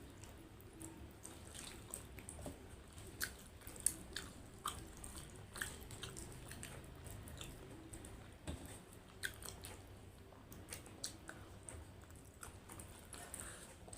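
A person chewing a mouthful of achari chicken and rice, with many irregular soft mouth clicks.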